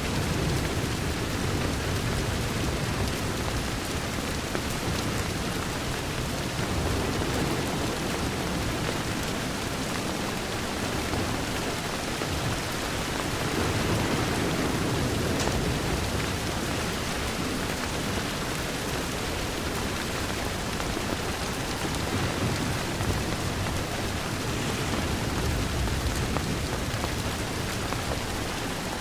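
Steady rain against a window: a dense, even hiss with a low rumble underneath that swells and eases every few seconds.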